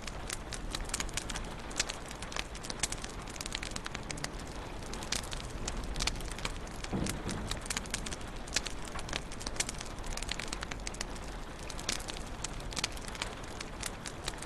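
Wood fire in a fireplace crackling, with frequent irregular sharp pops and snaps over a steady low hiss of burning, and a soft lower shift about seven seconds in.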